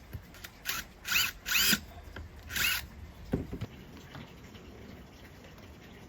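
Power drill run in four short bursts, each spinning up with a rising whine, followed by a knock a little after three seconds in.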